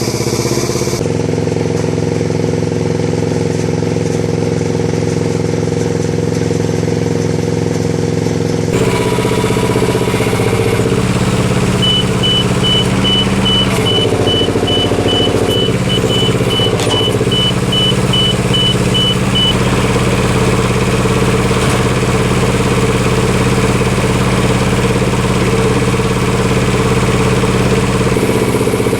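Spider crane's engine running steadily as it swings a lifted load. In the middle a high warning beeper sounds about twice a second for about seven seconds.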